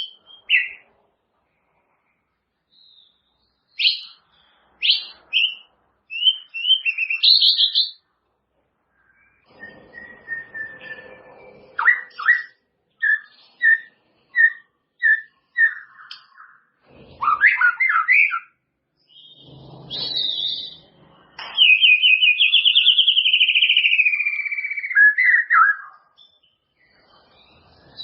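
White-rumped shama (murai batu) singing in separate whistled phrases with pauses between: quick gliding notes, a run of short repeated notes, then a long trill that falls slowly in pitch near the end.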